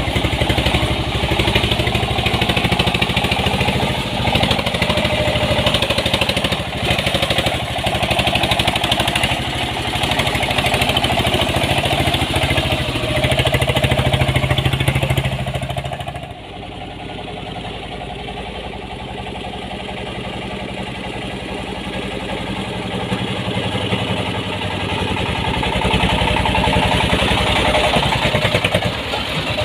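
Diesel engine of a homemade mini dump truck (ledok) running with a fast, even knock. It drops quieter and duller about halfway through, then builds up louder again near the end.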